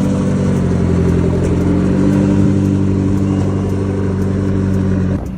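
A car engine running at a steady, even speed, then breaking off suddenly near the end.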